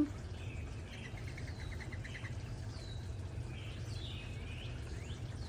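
Songbirds singing: a quick trill of about ten repeated notes about a second in, followed by several short downslurred whistles, over a steady low background rumble.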